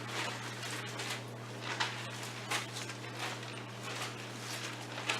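Bible pages being flipped, a run of irregular short rustles, over a steady low hum.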